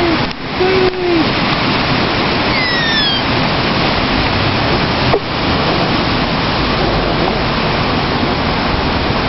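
Hurricane Ike storm wind rushing steadily and loudly, a constant wash of noise. A brief high gliding chirp comes about three seconds in.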